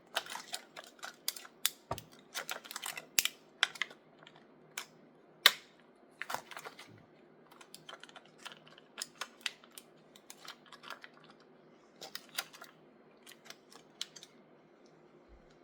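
Irregular clicks and taps of hands working at plastic toy packaging, trying to free a toy stuck in it, with one louder click about five and a half seconds in.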